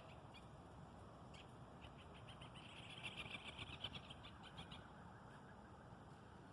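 Faint birdsong: scattered short high chirps, with a rapid trill for about two seconds near the middle, over a steady low background hum.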